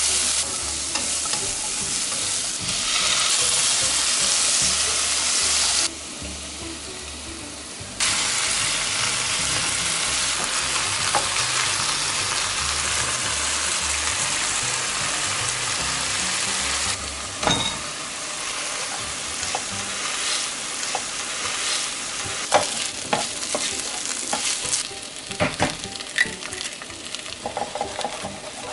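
Onion, peppers, shrimp and rice sizzling in oil in a frying pan while being stirred with wooden chopsticks: a steady frying hiss that drops and returns abruptly a few times. In the later part it is quieter, with scattered sharp clicks of the chopsticks against the pan.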